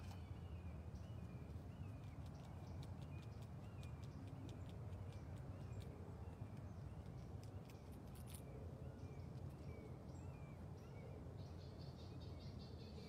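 Quiet outdoor ambience: a bird repeats a short hooked chirp about twice a second over a low steady rumble, with scattered faint clicks in the middle. Near the end a higher, busier chattering call joins in.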